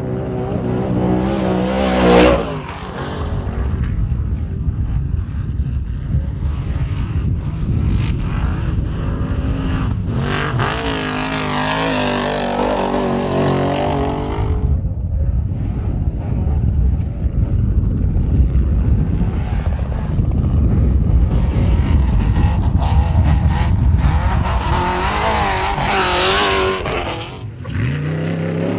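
Off-road race truck engines revving hard and passing, the pitch rising and falling with throttle, with a sharp loud hit about two seconds in.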